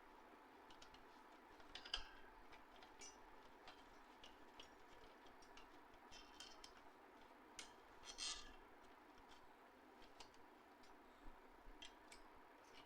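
Faint, irregular small clicks and taps of printer parts being handled, over a quiet room hiss, with a louder click about two seconds in and another about eight seconds in.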